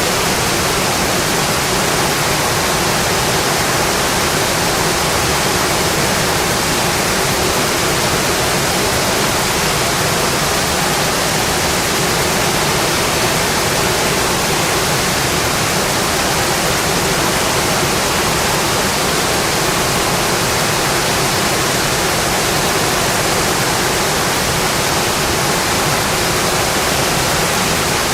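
Heavy, steady rain drumming on a metal roof, an even dense hiss with no let-up.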